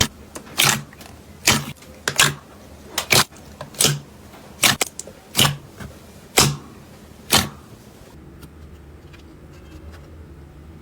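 Slime being squeezed and pressed, letting off about ten sharp popping clicks at a steady pace of a little more than one a second. After about eight seconds the popping stops and only faint crackles are left.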